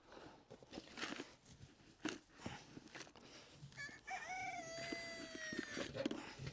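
A rooster crowing once, about four seconds in: a few short broken notes, then one long held note that falls slightly in pitch. Light knocks and rustles come before it.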